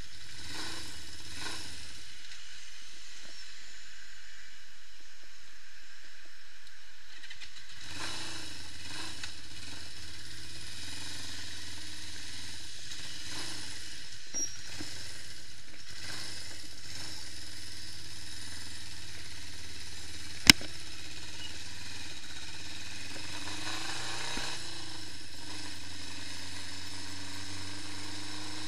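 Honda CB550 Four's air-cooled inline-four engine running, its pitch rising slowly near the end. One sharp click about twenty seconds in.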